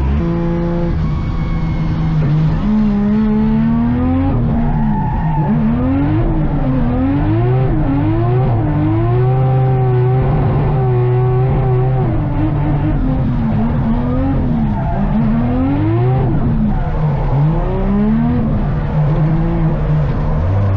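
Drift car engine revving hard, its pitch climbing and dropping over and over as the throttle is worked, with tyres squealing as the car slides.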